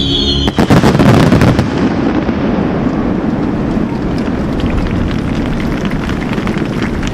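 Fireworks finale: a rapid volley of shell bursts starts about half a second in and is loudest over the next second, then gives way to a steady rumble of many smaller pops and echoing bangs.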